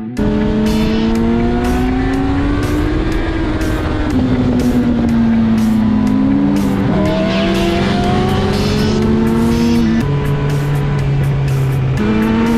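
Motorcycle engine running at speed, its pitch slowly climbing and falling with the throttle, dropping lower for a couple of seconds near the end before rising again. Background music with a steady beat plays over it.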